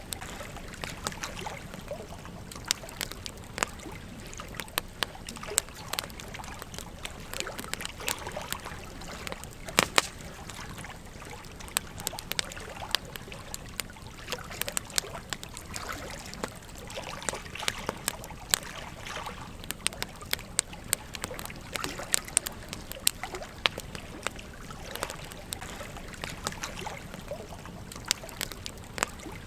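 A campfire crackling with frequent sharp, irregular pops over the steady babble of a gentle stream.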